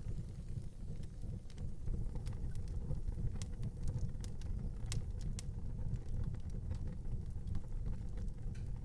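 Wood fire burning in an outdoor fireplace: a steady low rumble of flames with scattered sharp crackles and pops, a few louder snaps around the middle.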